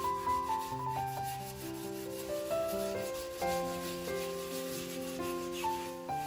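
Fireplace glass being scrubbed with a steel-wire dish scrubber, a steady rubbing hiss, under background music with a melody of held notes over bass notes.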